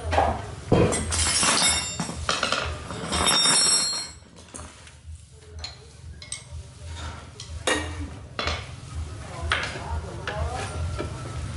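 Hard objects clinking, knocking and scraping, busiest and loudest in the first four seconds, then quieter with scattered knocks.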